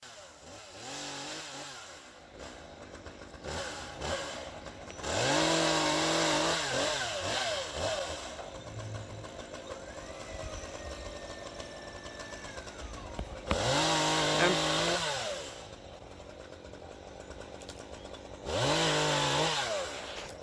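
Stihl chainsaw revving up, holding high revs, then dropping back to idle, in three loud surges of about two seconds each, with shorter, quieter revs before them.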